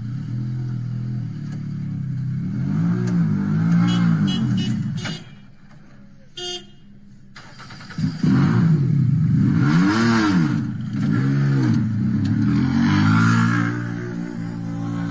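Rally car engines revving hard, their pitch rising and falling again and again as the cars accelerate and shift. A quieter lull about five seconds in, then the engine sound comes back loud at about eight seconds, with sweeping rises and falls in pitch.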